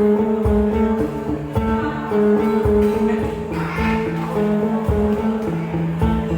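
Live band music with a strummed acoustic guitar and bass, an instrumental passage with steady held chords and a regular beat.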